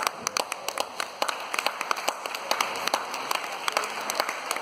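Audience clapping: many irregular hand claps, several a second.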